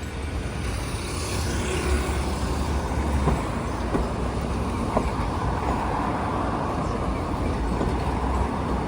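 Street traffic with a heavy vehicle running as a steady low drone that eases off about a third of the way in and returns near the end, with a few light clicks near the middle.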